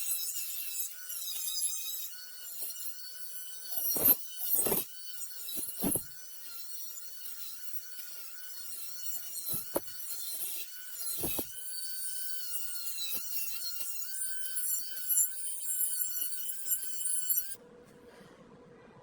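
Small high-speed power tool running with a steady, slightly wavering high whine, with several sharp knocks from the work piece. The tool stops suddenly near the end.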